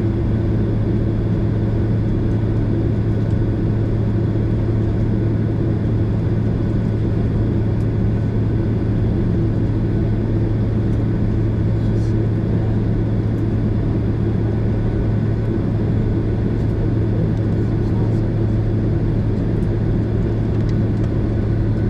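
Steady cabin drone of a Boeing 767 airliner: a constant low hum from the engines over an even rushing noise.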